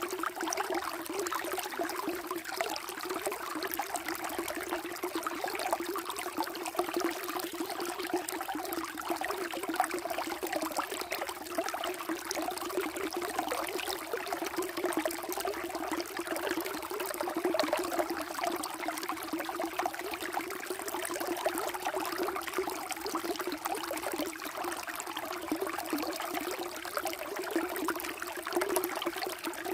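Water flowing steadily, a continuous trickling rush dotted with many small splashes and gurgles.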